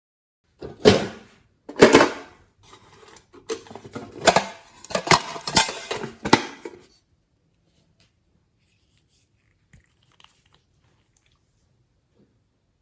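Slime being squished and worked by hand: a run of sharp, sticky squelches and pops lasting about six seconds, then it stops.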